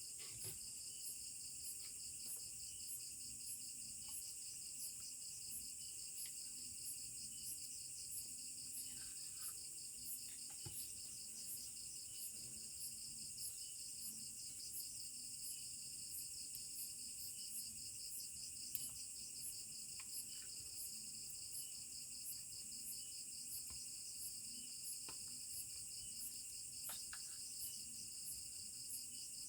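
A steady chorus of insects trilling at high pitch, with a rapid pulsing, interrupted now and then by a few faint, scattered clicks.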